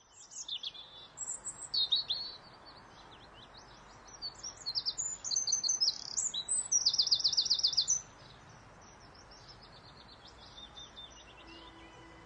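Birds singing: many short high chirps and whistles, with a fast run of repeated notes between about six and eight seconds in, over a steady soft hiss of outdoor ambience. Soft sustained music notes fade in near the end.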